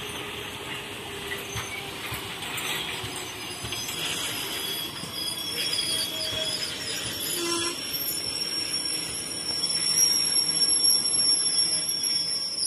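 Passenger coaches of an arriving express train rolling past at low speed, rumbling with wheel clicks on the rails. A steady high-pitched squeal from the wheels comes in about two-thirds of the way through and grows louder toward the end.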